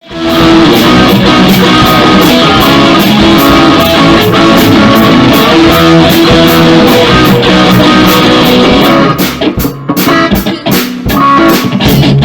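Rock music: guitar over a drum kit keeping a steady beat, breaking into short stop-start hits near the end.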